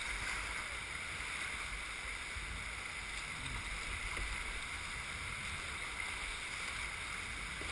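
Steady rush of river water flowing around a kayak, an even noise with no distinct splashes.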